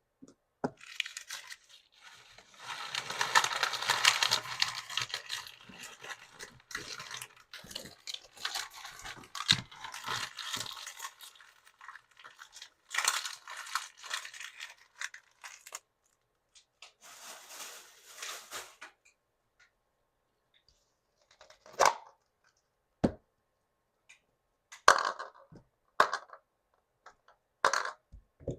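Plastic toy packaging being torn open and crinkled. After that come several separate sharp clicks and taps of small plastic pieces, about five in the last seven seconds.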